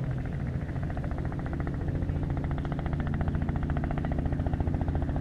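An engine's steady drone with a fast, even pulsing beat, growing slowly louder.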